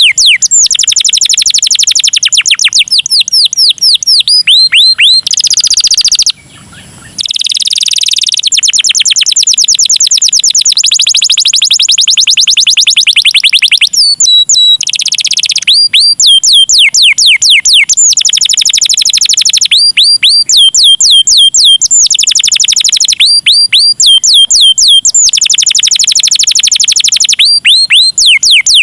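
Canary singing a long, loud song of fast trills, each trill a rapid run of repeated notes sweeping down in pitch, the phrases changing every second or two. There is a short pause about six seconds in.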